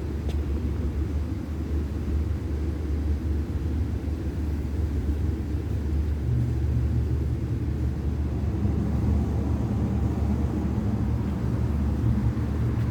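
Blast freezer's refrigeration unit running after a compressor replacement: a steady low hum, with a slightly higher hum joining about halfway through.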